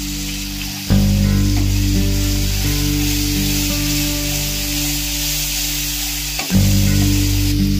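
Onion and spice paste sizzling in a hot oiled non-stick pan while a wooden spatula stirs and scrapes it. Steady background music plays underneath, changing chord about a second in and again near the end.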